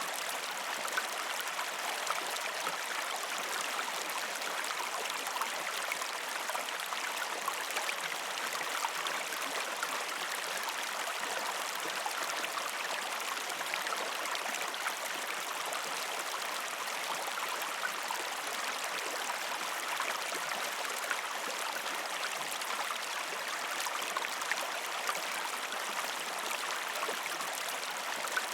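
A gentle river stream flowing over rocks: a steady rushing with a constant patter of small splashes and burbles, and little low rumble.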